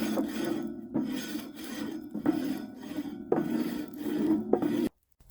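A rough rasping rub or scrape in about five strokes, each roughly a second long, that cuts off abruptly near the end.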